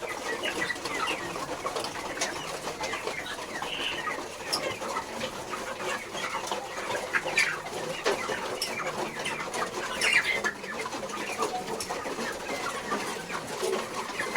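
A flock of market-age broiler chickens clucking and calling without a break, many short calls overlapping.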